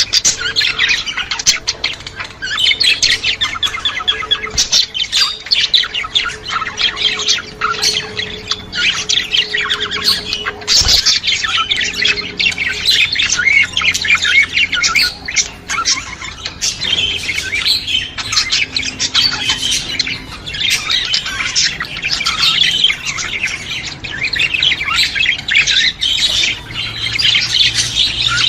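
A flock of budgerigars chattering and chirping nonstop, many birds calling over one another with short squawks mixed in.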